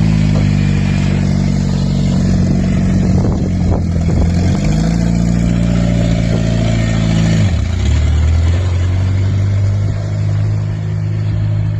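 Eagle Talon's turbocharged four-cylinder engine running loud with its exhaust not yet fitted as the car pulls away. The engine note dips and recovers about four seconds in, then drops to a lower, steady pitch past the middle.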